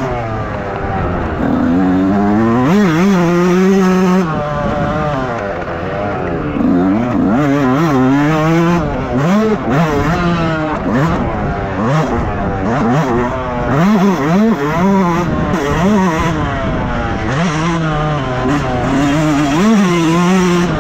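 Motocross bike engine revving hard and backing off again and again, its pitch climbing and dropping every second or two as the throttle is opened and closed and the gears change.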